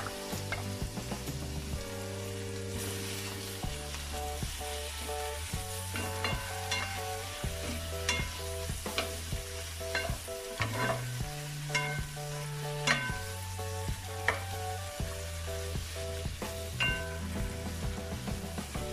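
Chicken pieces sizzling in melted butter in a frying pan, with a wooden spatula scraping and knocking against the pan as they are stirred; sharp knocks come every second or two from about six seconds in.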